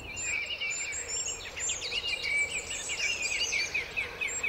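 Small songbirds singing: busy chirping trills together with a thin, high note repeated about twice a second, over a steady background hiss.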